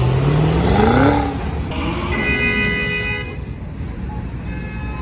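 A car engine accelerating, its note rising for about a second, then a car horn blares for about a second and a quarter. Fainter horn honks sound near the end.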